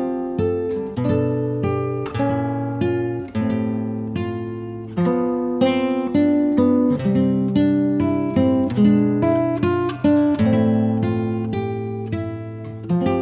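Acoustic guitar playing an instrumental passage, plucked and strummed notes several times a second over a bass line.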